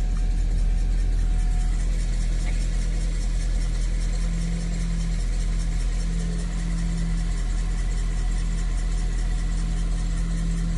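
Toyota MR-S's 1.8-litre four-cylinder engine running at a steady, unchanging note.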